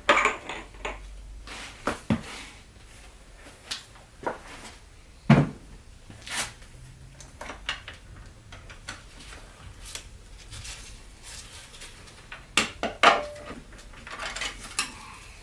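Hard parts and tools being handled, with scattered irregular clinks and clicks, a heavier knock about five seconds in, and a quick run of clicks near the end.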